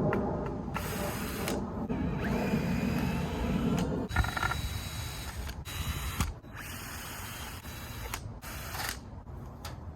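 Short bursts of mechanical whirring, clicking and clatter from a cordless drill driver and hardware as the door is unscrewed and taken down, with a thin whine in the middle.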